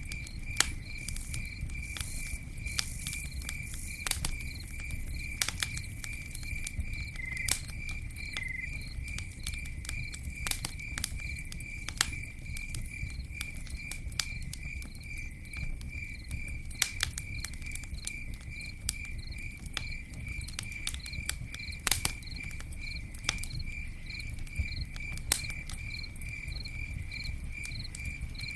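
Campfire crackling, with a low rumble and sharp pops scattered through it. Under it, a cricket chirps steadily in an even, unbroken rhythm.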